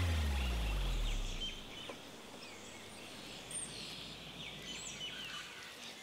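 Background music ending in a low falling tone that fades out by about a second and a half in. It gives way to quiet outdoor ambience with scattered short bird chirps and whistles.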